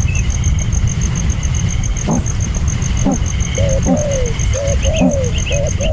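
Birds calling: short arching calls repeated, coming thicker in the second half, with a few higher chirps near the end. Under them runs a steady low rumble, and a high, even ticking about five times a second.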